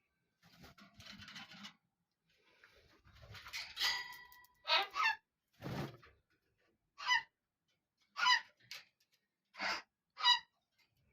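Birds calling: a run of short, loud calls, about one a second, through the second half, after softer noisy sounds near the start.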